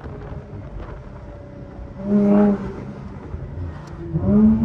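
Twin-turbo V6 of an Infiniti Q50 with a muffler delete, running under way with a low exhaust rumble. A louder, steady engine note swells briefly about two seconds in, and the note comes up again near the end.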